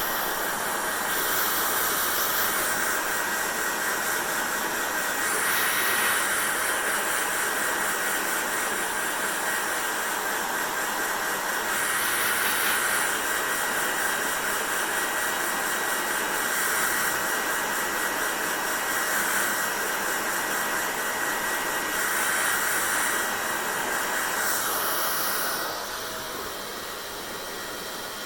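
Hair dryer blowing steadily, a continuous rush of air, with the hissing top swelling and easing every few seconds and the whole sound dropping in level near the end.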